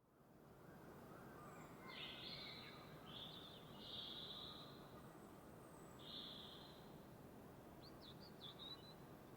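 Faint outdoor ambience of songbirds calling over a steady hiss. There are a few drawn-out calls about two to four seconds in, another about six seconds in, and a quick run of short chirps near the end.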